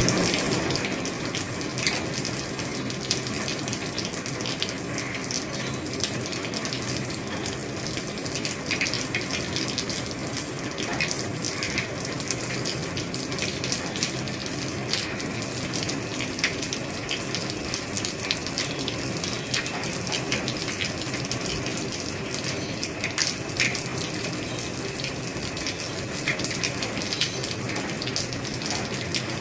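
Steady rain falling on an old roof: an even hiss dotted with many sharp taps of drops striking.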